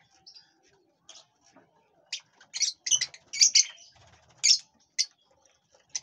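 Small birds chirping: a run of short, sharp, high chirps, coming thickest and loudest between about two and five seconds in.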